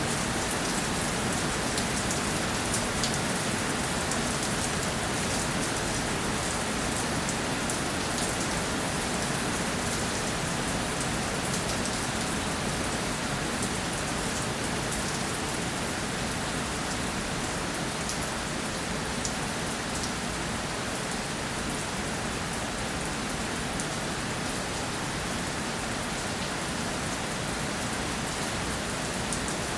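Steady rainfall, drops pattering on a surface with many small, close drop ticks over an even hiss.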